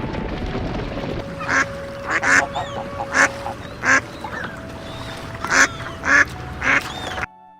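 A bird, likely a goose, giving a series of short honking calls, about eight over several seconds, with a steady hum behind them.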